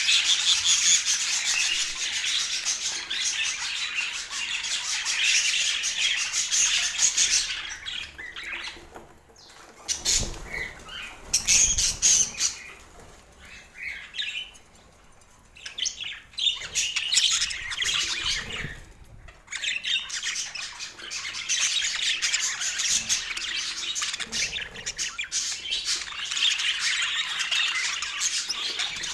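Budgerigars chattering and squawking in fast, busy warbles. The chatter thins out for a while in the middle, with a few low bumps, then picks up again.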